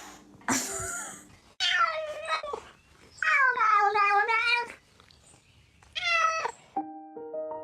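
A domestic cat making three drawn-out, wavering yowls, the middle one the longest, after a short noisy burst about half a second in. Piano music begins near the end.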